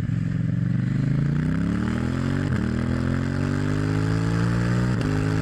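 Suzuki V-Strom 650's V-twin engine accelerating under load. Its pitch climbs steadily, with a brief break and small drop about two and a half seconds in and again near the end as it shifts up a gear.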